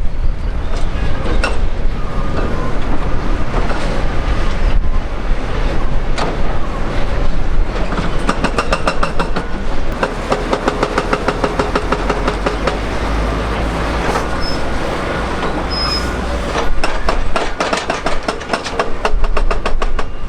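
Loud, steady rumble of an Ilyushin Il-76's four jet engines on the ground, with a rapid rattling of clicks through the middle and again near the end.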